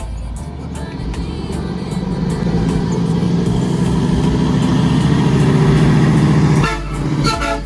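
Scania P360 truck's diesel engine pulling hard, its note building steadily for about five seconds, then backing off sharply near the end, with music playing over it.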